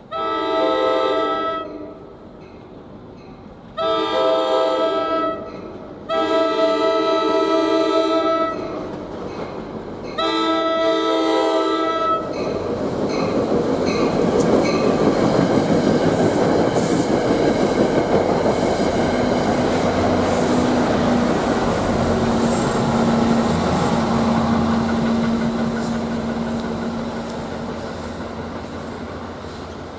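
NJ Transit commuter train's air horn, a chord of several notes, sounding four blasts in the first twelve seconds; the third blast is the longest. The push-pull train then runs past with a loud, steady rush of wheels on rail that slowly fades. A low steady hum comes in about twenty seconds in as the GP40 diesel locomotive pushing at the rear goes by.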